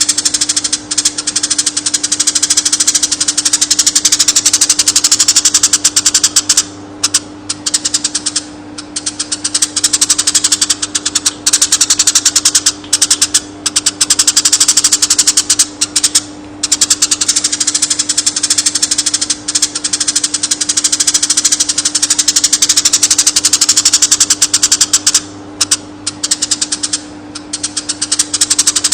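Eurasian tree sparrow chirping in a long, fast, unbroken chatter, with a few brief pauses, over a steady low hum.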